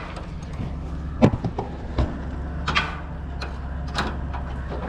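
A motor running steadily in a low hum, with five or six sharp knocks and clanks scattered through it.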